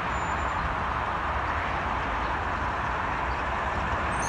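Steady rolling noise of a coal train moving along the track: an even hiss with a low rumble underneath.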